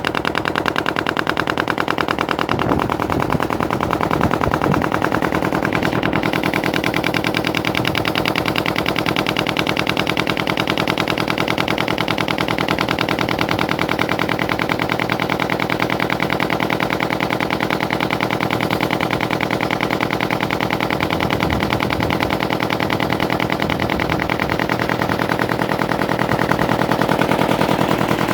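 Ferry boat's diesel engine running steadily, a loud, rapid, even chugging.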